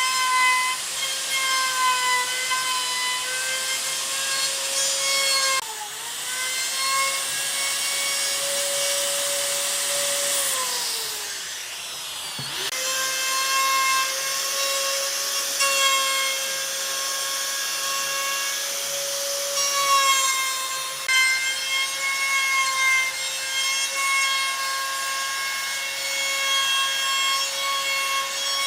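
An electric power tool running on wood with a steady high motor whine and hiss. Its pitch sags briefly about six seconds in. It winds down from about ten seconds in and starts up again about two seconds later.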